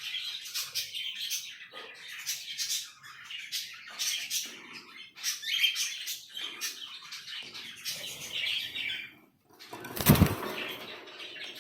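Pet parrots chirping over and over in short, high calls, with wings fluttering. A sharp loud burst of noise comes about ten seconds in.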